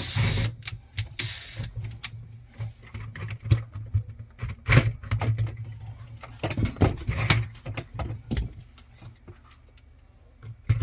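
Irregular metallic clinks and rattles of small screws and tools being handled while a dishwasher's spray-arm bracket is screwed back in place, over a steady low hum.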